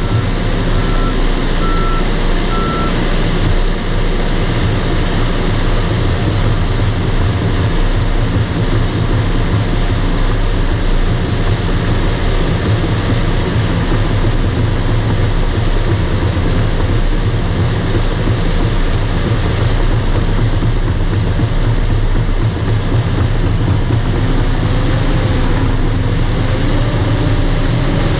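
Bulldozer's diesel engine running steadily, with its reverse alarm beeping until about three seconds in. Near the end a wavering whine comes in over the engine.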